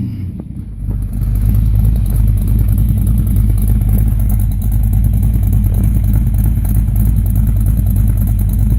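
A car engine idling loudly and steadily, with a brief rise in pitch right at the start and a step up in loudness about a second in.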